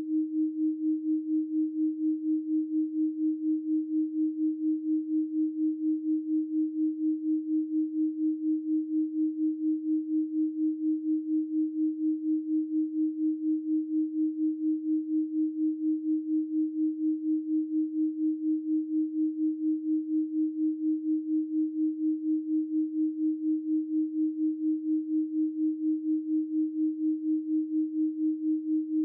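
Steady electronic pure sine tone at about 312 Hz, a single low-mid hum with no overtones, pulsing evenly and rapidly in loudness.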